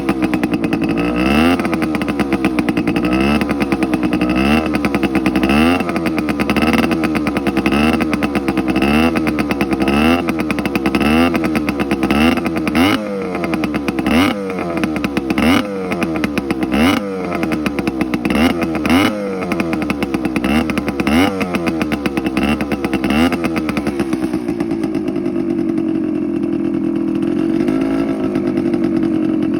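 Suzuki TC125's single-cylinder two-stroke engine running and being revved in quick blips, about one a second, then settling to a steady idle near the end.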